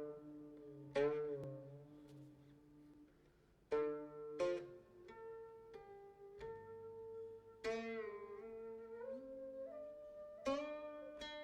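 Slow background music on a plucked string instrument: about five plucked notes that ring on, several of them sliding in pitch after the attack.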